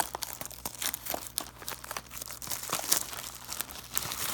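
Plastic wrapping crinkling and tearing in quick irregular crackles as a sealed box of trading cards is unwrapped.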